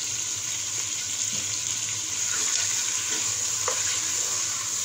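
Raw chicken pieces sizzling in hot oil in a pot: a steady hiss, with one faint click a little past the middle.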